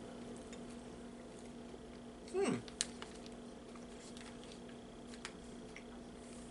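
A man chewing soft baklava in a quiet room with a steady low hum, making a few faint mouth clicks. A short falling "mm" comes about two and a half seconds in.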